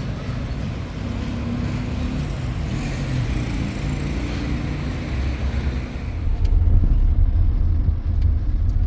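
Low rumble of a motor vehicle running, growing louder about six seconds in.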